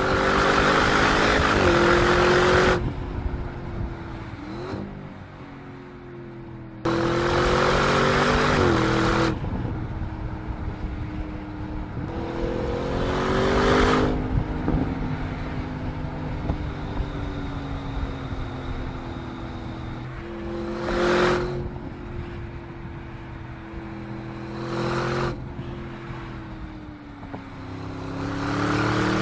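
Audi RS 7 Sportback's 4.0-litre twin-turbocharged V8 accelerating through the gears, its note climbing and dropping back at each upshift. Several loud rushes of noise come as the car passes close.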